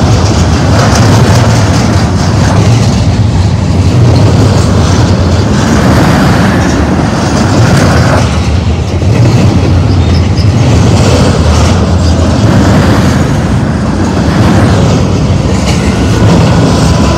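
Double-stack intermodal train's well cars rolling past: a loud, steady rumble with the wheels clattering over the rails.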